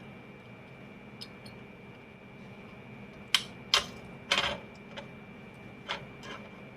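Small tools clicking and tapping at a soldering bench: a handful of sharp clicks, the loudest three close together a little past halfway, over a steady faint high whine.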